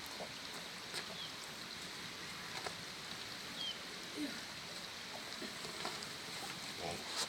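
Quiet outdoor ambience: a steady faint hiss with a few soft knocks and three brief high chirps spread through it.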